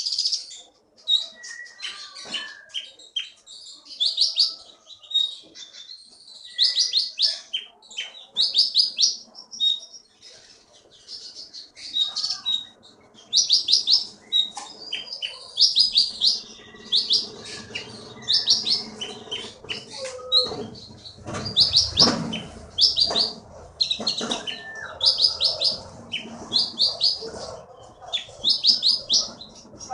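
A konin songbird singing vigorously: short runs of rapid, high, repeated notes, one run every second or two, with a few lower whistled notes between them.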